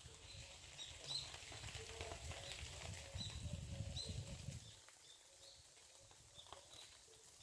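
Faint small-bird chirps, short high calls repeating a few times a second, over a low rumble that stops about two-thirds of the way through.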